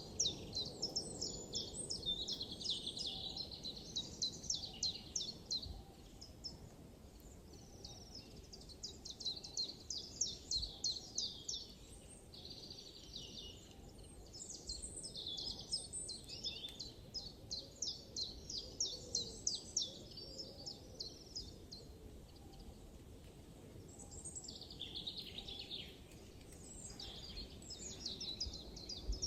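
Songbirds singing in a forest: fast, high trills and chirping phrases that keep coming back, pausing briefly now and then, over a steady low background hum.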